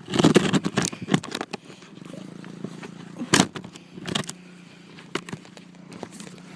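Small dirt bike engine idling with a steady hum, with a burst of rattling and clattering in the first second and a half and a few sharp knocks about three and a half and four seconds in.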